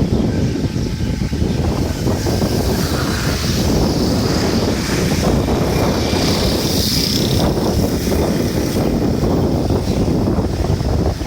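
Wind buffeting the microphone, a loud, uneven rumble.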